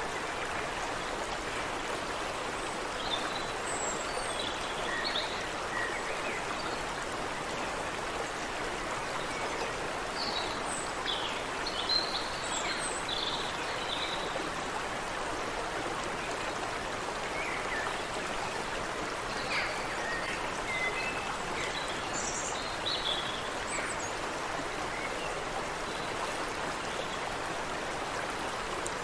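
Stream water running over rocks in a steady rush, with short bird chirps and calls scattered over it, busiest in several brief flurries.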